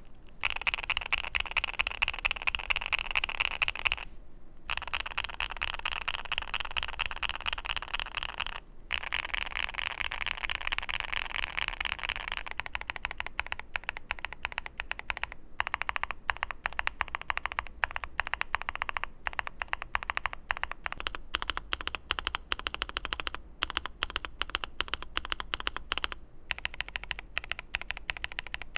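Typing on a Createkeebs Luminkey75, a gasket-mounted aluminium custom mechanical keyboard: a fast, continuous patter of keystrokes with two short pauses. About twelve seconds in, the strokes become sparser and more separate.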